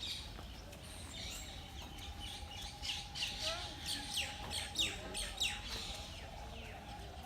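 Birds singing in trees: a run of quick, high, downward-sweeping notes, loudest in the middle of the stretch.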